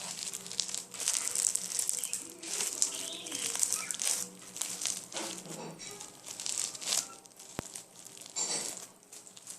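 Homemade borax-and-glue slime filled with small foam beads being squeezed and kneaded by hand, giving an irregular crackling and squishing. A single sharp click comes about three-quarters of the way through.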